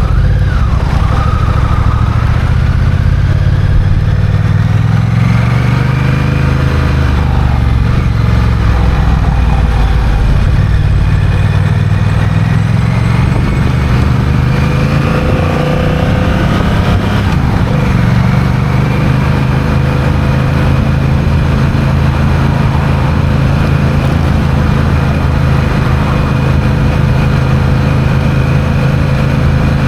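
Honda CMX1100 Rebel's parallel-twin engine under way, its revs rising and falling through the first half, then holding a steady cruise for the rest.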